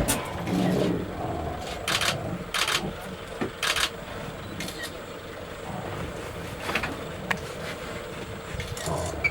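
Lion making low rumbling growls, with a string of short, breathy huffs scattered through the sound.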